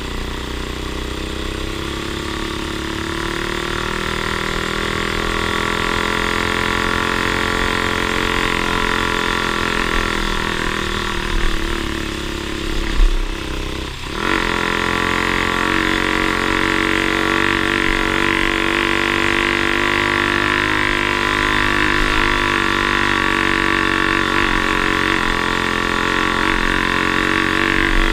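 Off-road vehicle engine running steadily under way. About halfway through it dips briefly and changes pitch, then carries on steady.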